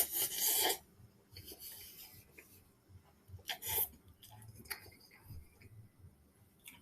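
Raspy, hissing mouth sounds from a person eating spicy ramen noodles: a loud burst right at the start, then a few shorter, fainter ones.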